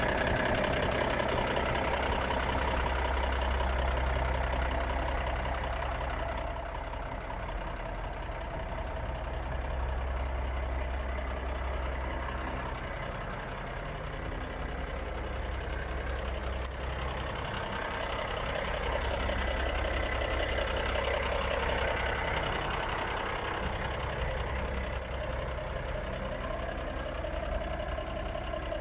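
Volvo FH 460 truck's 13-litre six-cylinder diesel idling steadily, a low rumble that grows louder and softer by turns.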